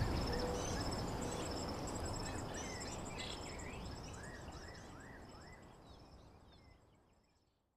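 Nature ambience: insects trill steadily and high with a few short bird chirps over a soft background hiss. The whole sound fades out to silence about six seconds in.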